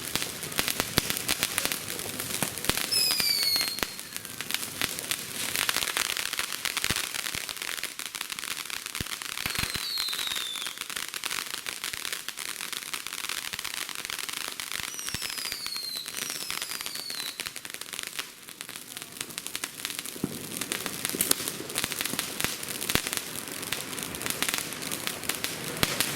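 Consumer fireworks crackling densely and steadily, a rapid spatter of small pops, with a few short falling whistles around 3, 10, 15 and 17 seconds in.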